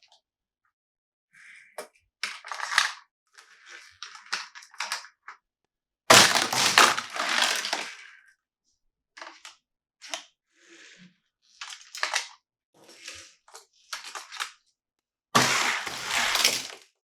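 Toy packaging being handled and crinkled during an unboxing: a string of short crackling rustles, with two longer, louder crunches about six seconds in and near the end.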